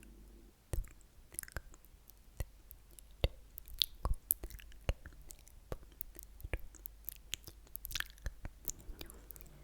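Close-miked wet mouth sounds: sticky clicks and smacks of lips and tongue, coming irregularly several times a second with short pauses between.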